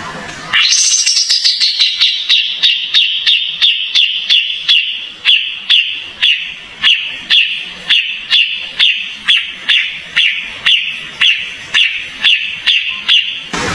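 Kapas tembak songbird calling in a rapid, unbroken run of sharp, high, falling notes, about three a second, starting about half a second in.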